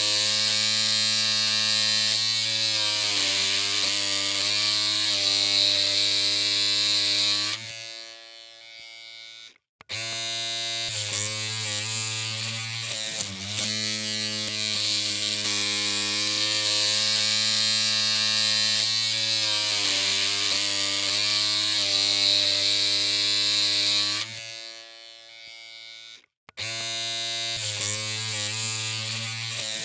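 Electric hair clippers running with a steady buzzing hum. The sound cuts out twice, about 8 seconds in and again about 24 seconds in, and each time starts again after a couple of seconds.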